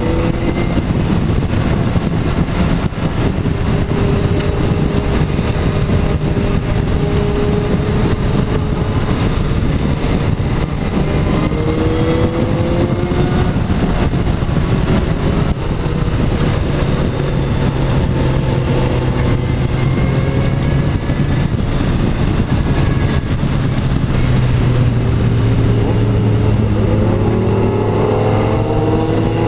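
Kawasaki Z motorcycle engine running under way. Near the end its pitch climbs several times as the bike accelerates.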